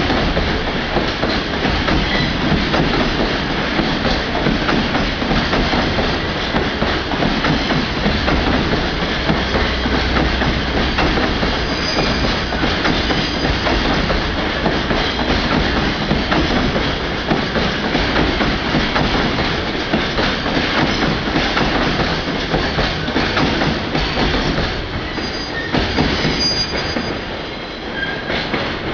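JR Freight container train rolling past: a steady rush of wheel noise and rail clatter, with brief high wheel squeals about twelve seconds in and again near the end.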